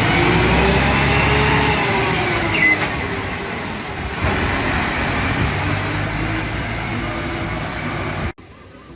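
Large concrete mixer truck's diesel engine running, its pitch rising and falling, with a brief high squeal about two and a half seconds in. The sound cuts off abruptly near the end.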